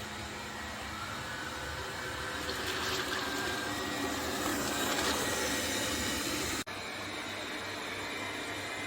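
Laresar robot vacuum cleaner running: a steady whirring hiss from its suction fan and brushes, briefly cut off about six and a half seconds in.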